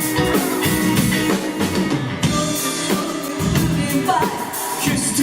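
Live band playing an instrumental stretch between sung lines: drum kit with rimshots and bass drum over held instrument notes, with the singer coming back in near the end.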